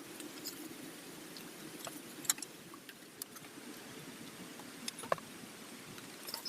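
Steady rain falling, with scattered light clicks and clinks over it, the sharpest about two seconds in and again about five seconds in.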